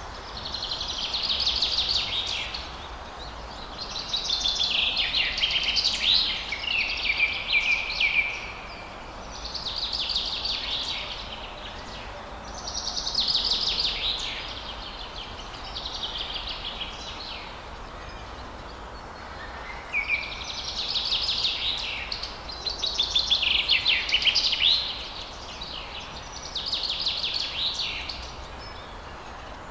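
A songbird singing high, rapidly trilled phrases of about two seconds each, repeated every few seconds, over a faint steady outdoor background.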